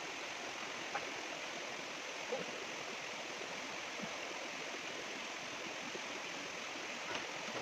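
Running water of a forest stream, a steady even rush, with a couple of faint knocks in the first few seconds.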